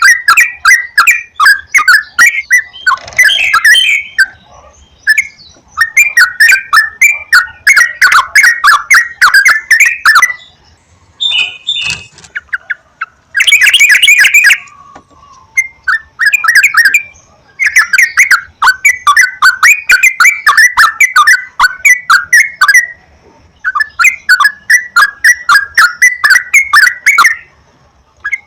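Sooty-headed bulbul (trucukan) song: loud bouts of fast, repeated chattering notes, each bout a few seconds long with short pauses between. This is a lure call, played to rouse caged bulbuls into singing.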